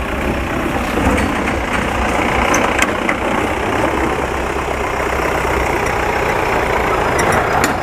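Off-road vehicle engine running steadily with a low rumble, with a few faint clicks.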